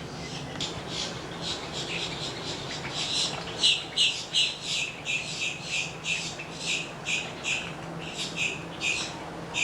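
A bird giving a rapid run of short, harsh squawks, about two or three a second, growing louder about three seconds in.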